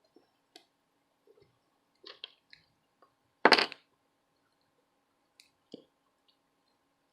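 Small clicks and taps of a circuit board, a charging port and small tools being handled on a workbench, with one louder noise of under half a second about three and a half seconds in. A faint steady hum sits underneath.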